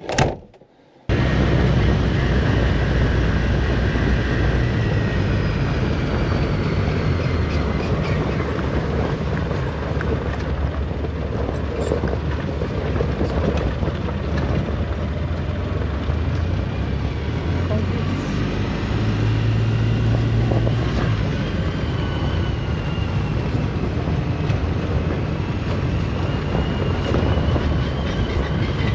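Polaris Ranger side-by-side running while driving along a gravel forest road. A steady engine drone with the rumble and rattle of the ride, its pitch rising and falling a little with speed. It starts suddenly about a second in.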